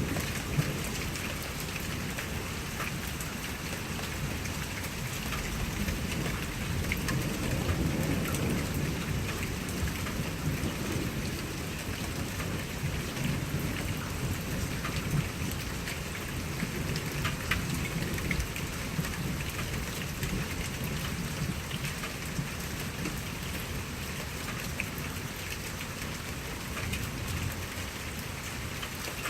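Steady rain with individual drops heard as sharp ticks, over a low rumble of thunder that builds about a fifth of the way in, swells again around the middle and eases off toward the end.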